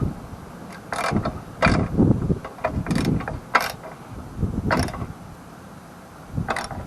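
Socket ratchet clicking in several short, irregular bursts as a snowblower's spark plug is worked loose back and forth, its threads galling a little.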